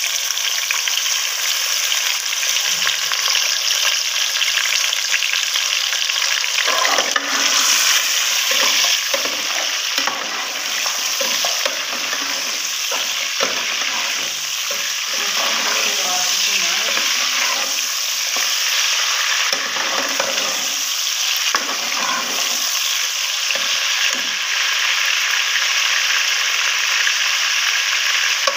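Raw chicken pieces sizzling in hot oil and fried onions in a metal cooking pot. A metal ladle stirs and scrapes against the pot through the middle of the stretch, adding irregular clatter over the steady sizzle.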